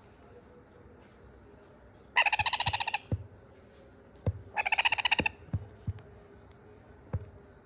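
Sun conure chick giving two rapid, pulsing begging calls, the first just under a second long and the second a little shorter, asking to be fed more. A few short soft knocks fall between and after the calls.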